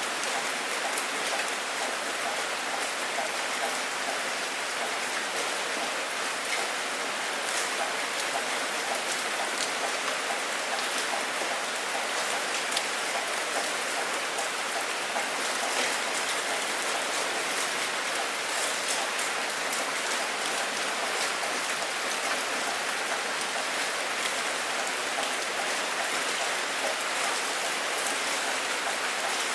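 Steady rain falling and pattering on a surface, with individual drops ticking; no thunder.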